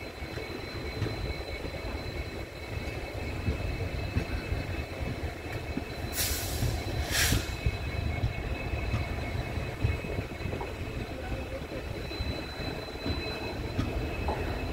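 Passenger train running on the rails: a steady low rumble with a faint steady high whine over it, and two short bursts of hiss about six and seven seconds in.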